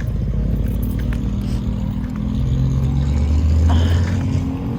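Car engine running at low revs, getting louder about three seconds in.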